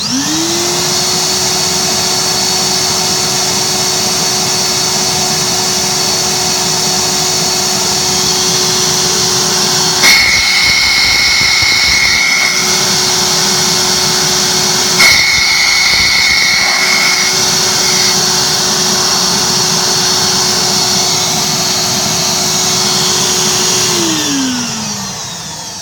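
Mytee Airhog vacuum motor spinning up, running steadily with its exhaust going through a central-vacuum muffler fitted to a side exhaust port, then winding down near the end. Twice, a sharp knock is followed by a higher whistle that joins for about two seconds.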